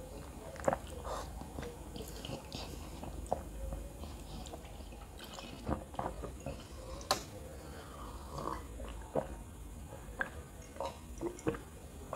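Close-miked chewing of boiled egg and kottu roti, with scattered wet mouth clicks and smacks. One sharp click about seven seconds in is the loudest.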